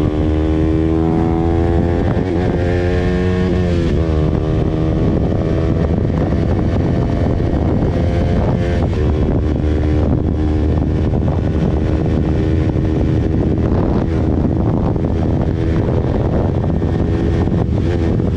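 KTM motorcycle engine running on the move: the revs climb and waver through the first few seconds, dip briefly about four seconds in, then hold a steady pitch over a low rumble.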